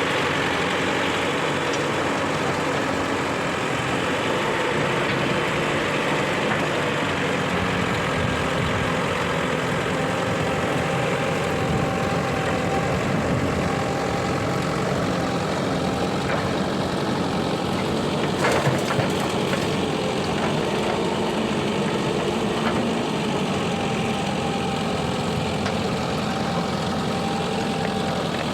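Heavy diesel engines running steadily at a mud-loading site, a backhoe loader's and a tractor's, with a short clatter about two-thirds of the way through.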